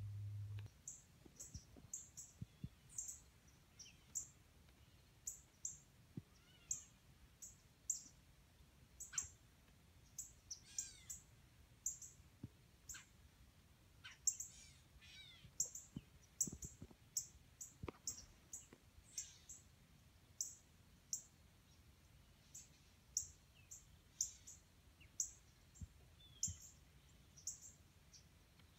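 Birds calling: a long, uneven series of short, very high chirps, about one or two a second, with a few lower sliding calls from other birds mixed in.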